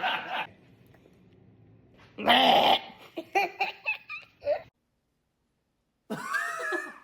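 People laughing and making silly vocal noises: laughter dies away at the start, a loud voiced burst comes about two seconds in, followed by a run of short squeaky yelps, and after a brief cut a wavering voiced sound near the end.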